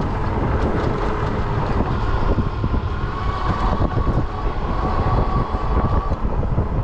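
Wind buffeting the microphone and the rumble of fat tires rolling over a rough road while riding an e-bike, with a faint steady whine in the middle.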